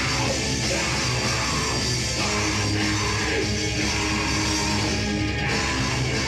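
Rock band playing live: a loud heavy metal song at steady full volume.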